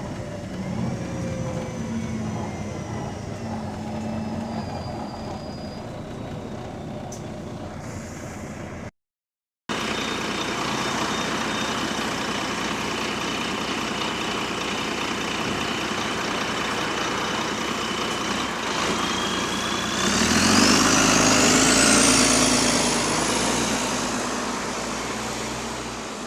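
Volvo B9TL double-decker bus engine running, then pulling away about twenty seconds in: the engine gets louder and a whine climbs steeply to a high pitch before fading. The bus has an exhaust leak.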